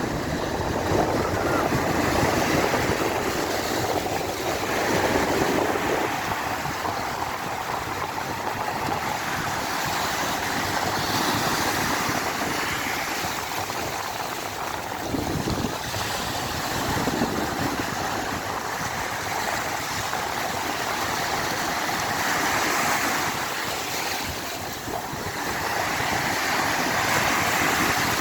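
Sea waves breaking and washing on the shore, a steady rushing noise that swells and eases every few seconds.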